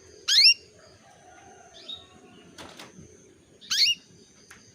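Female canary giving two short, sharply rising call notes about three seconds apart: the call a hen canary uses to stir a male into breeding condition and singing. A brief rustle midway.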